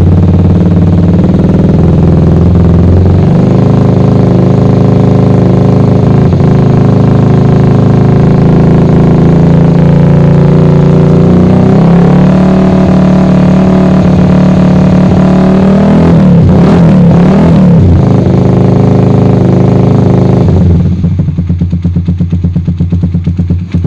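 Suzuki Satria FU 150 single-cylinder four-stroke engine running loud through a Cream Pie racing exhaust, held at raised revs. It is revved up and down about two-thirds of the way in, then drops near the end to a lower, rapidly pulsing idle.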